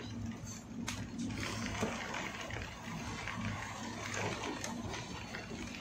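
Steady low hum and background noise inside a passenger train coach, with a sharp click about a second in.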